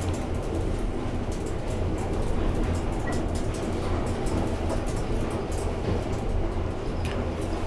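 Rail-running machinery moving: a steady low rumble with many quick, irregular clicks and rattles over it.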